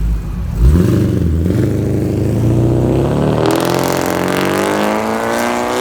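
A car engine opens up suddenly about half a second in and accelerates away, its pitch climbing steadily as it revs up.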